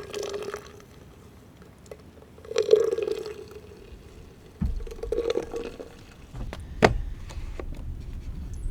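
Liquid being poured in three short spurts, each a couple of seconds apart. A low rumble comes in about halfway through, and there is one sharp click near the end.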